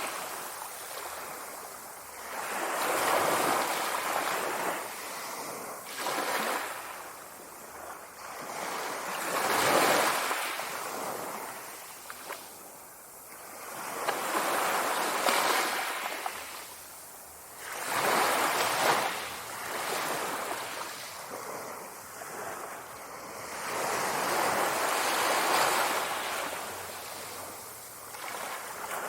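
Sea waves breaking and washing back, in swells that rise and fall every few seconds.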